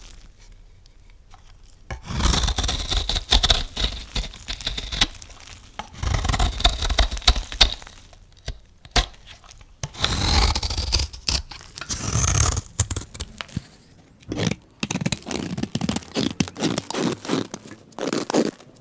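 A knife cutting and scraping through soap in four scraping strokes of a few seconds each, separated by short pauses, with many small clicks.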